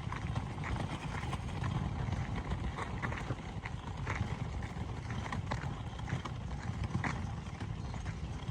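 Campfire burning: irregular small crackles and clicks over a steady low rumble.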